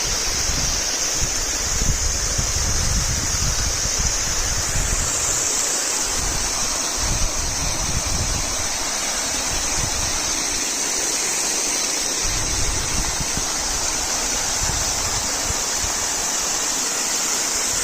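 Urach waterfall rushing steadily, with a low rumble that comes and goes.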